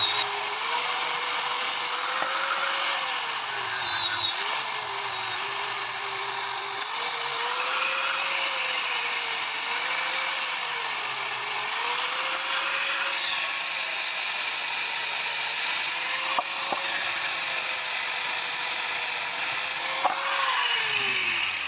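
Electric power tool running under changing load on metalwork, its motor pitch sagging and recovering several times over a steady harsh noise. It winds down and stops near the end.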